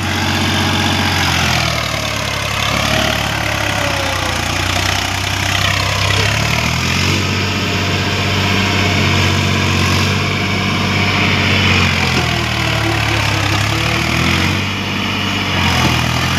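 Swaraj tractor's diesel engine running, its speed rising and falling several times.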